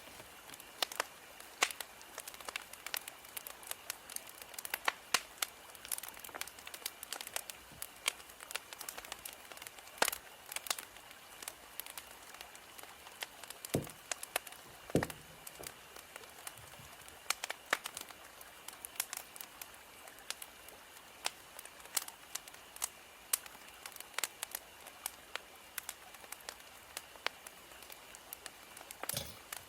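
Wood fire crackling: irregular sharp snaps and pops over a faint steady hiss, with two deeper pops a little past the middle.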